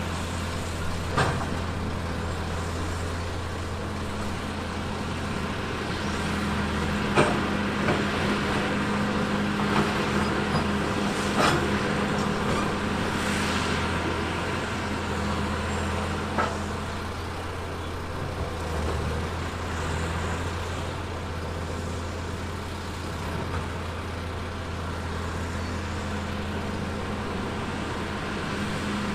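Heavy earthmoving machine's diesel engine running steadily at a constant pitch, with a few sharp metallic knocks, the clearest about a second in, near seven seconds, around eleven seconds and around sixteen seconds.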